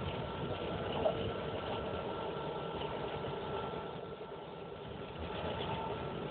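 Steady running noise inside a moving ScotRail passenger train carriage: a rumble with a faint steady high tone, and a single short knock about a second in.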